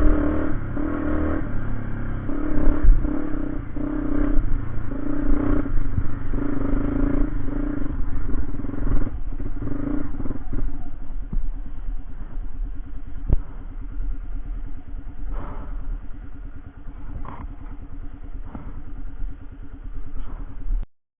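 A vehicle engine running, its note swelling and easing repeatedly for the first ten seconds or so and then holding steadier, with some clatter.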